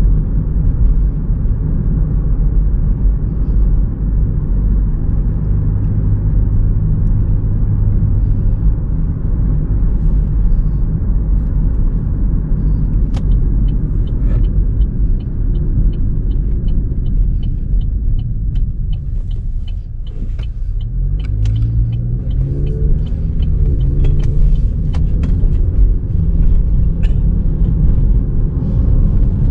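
GMC Terrain with a K&N cold air intake and Flowmaster Delta series exhaust, heard from the driver's seat while driving: a steady engine and road rumble. A run of regular ticks comes about halfway through. The engine note then drops away and rises in pitch in steps, accelerating through the gears.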